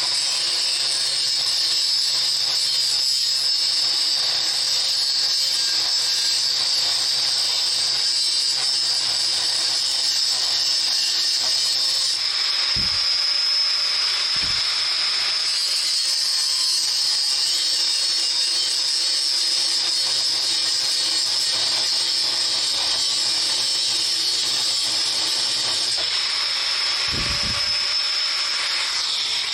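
Lathe running steadily: a constant high whine over a hiss, with a few brief low thuds.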